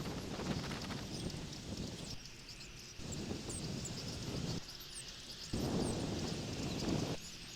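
Wind buffeting an outdoor nest-camera microphone in gusts that start and stop abruptly, with faint high chirps of small birds over it.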